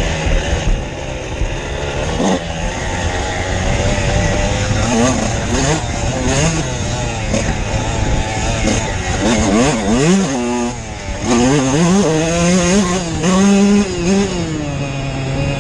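Dirt bike engine running while ridden, holding a steady note at first, then revving up and down repeatedly as the throttle is worked.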